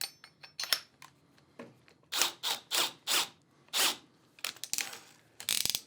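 Handling noises from a cordless drill and its battery pack: irregular short plastic clicks, knocks and rustles, with a quick cluster of them near the end.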